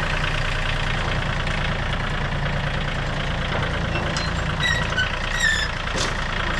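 A vehicle engine idling steadily, with a few short high chirps about four and a half to five and a half seconds in and a sharp click near the end.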